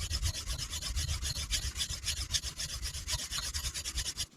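A knife edge scrubbed rapidly back and forth on a sharpening stone, several rasping strokes a second, stopping near the end. The blade is being reprofiled to a new angle and ground until the edge apexes and a burr forms.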